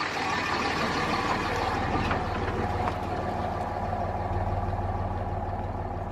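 A motor vehicle running: a steady low engine hum under a rushing noise, easing off slightly toward the end.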